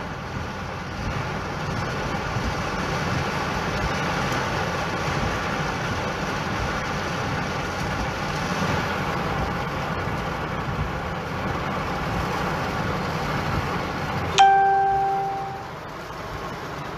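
Steady noise of heavy rain on a car, heard from inside the cabin. About three-quarters of the way through, a single sharp, clearly pitched ding rings out and fades over about a second and a half.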